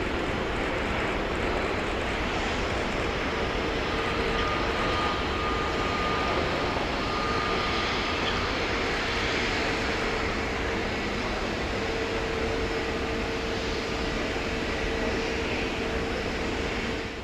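Boeing 777 freighter's twin jet engines on landing: a steady, loud jet rush with a faint steady whine running through it.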